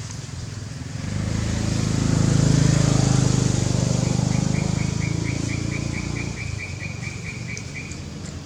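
A vehicle engine passing by, its low hum swelling and then fading away. During the fade a bird gives a rapid series of high chirps, about four a second.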